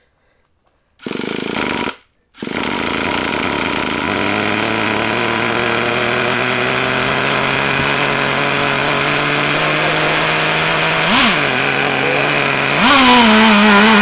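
Small nitro (glow-fuel) engine of a Traxxas T-Maxx RC truck being started: a one-second burst, a short break, then it catches and runs steadily. Its pitch flicks up and back once near the end and then jumps higher and stays there as the throttle is opened; the carburettor mixture screw is still being tuned and it is not yet running right.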